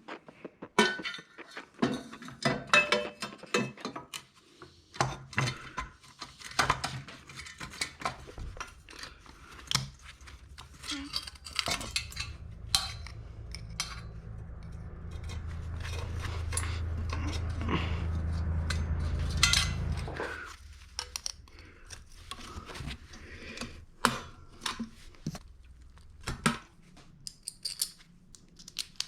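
Metal clinking and knocking of motorcycle exhaust header parts and hand tools being handled during fitting, many short irregular clinks. A low steady hum builds midway and cuts off suddenly about two-thirds of the way in.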